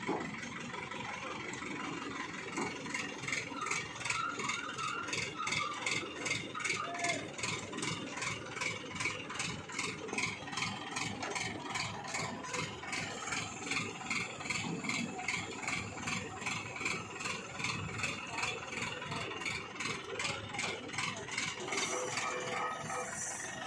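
Crane's engine running steadily while it lifts a heavy load, with a regular pulsing about twice a second.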